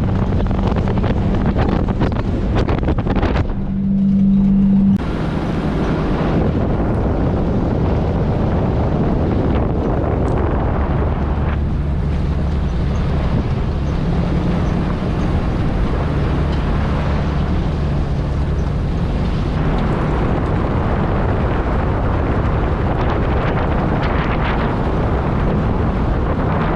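Off-road vehicle engine running steadily while driving, with wind noise on the microphone. About three and a half seconds in, the sound briefly turns into a louder steady hum for about a second and a half, then the driving noise returns.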